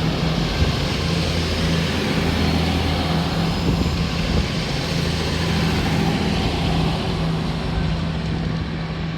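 Class 222 Meridian diesel multiple unit running under the station roof: a steady low engine drone under a wash of noise, without pause.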